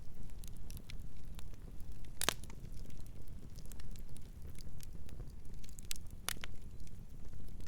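Campfire crackling: scattered sharp pops and snaps over a steady low rumble, with louder pops about two seconds in and again about six seconds in.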